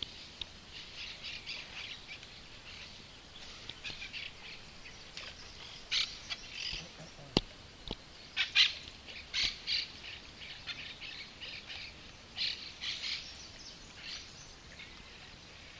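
Wild birds chirping and calling, many short high calls scattered throughout, with one sharp click about seven seconds in.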